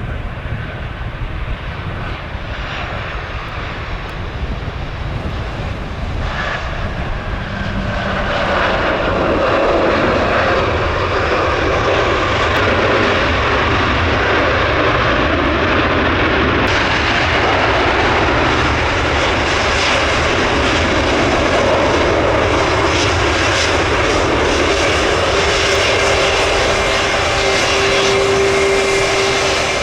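Jet airliner engines, growing louder about eight seconds in and then holding loud, with a steady whine coming in near the end.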